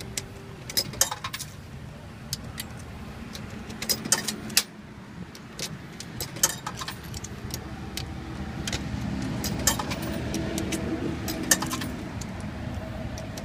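Quarters clinking in hand and dropping into a coin-operated car wash pay machine: irregular sharp metallic clinks. A low steady rumble of the idling car runs underneath.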